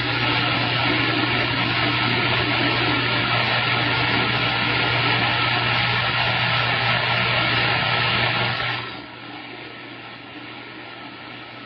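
CB radio receiver on 27.025 MHz hissing with heavy static and a steady low hum while a long-distance station transmits, its voice buried in the noise. About nine seconds in the loud static drops away sharply, leaving a quieter band hiss as the distant transmission ends.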